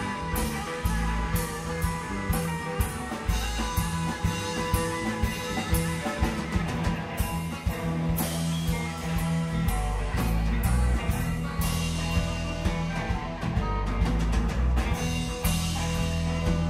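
Live rock band playing an instrumental jam: electric guitar over bass and a drum kit keeping a steady beat with cymbals.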